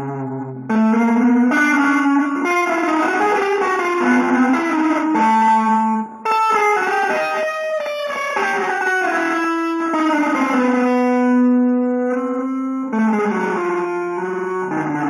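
Guitar playing a wandering melodic line of single notes, mixing quick runs with a few long held notes. The playing breaks off briefly about six seconds in.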